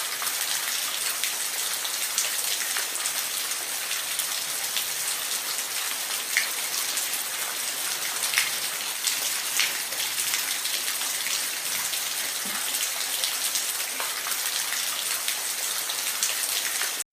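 Steady rain falling, a dense even hiss with single drops now and then striking louder.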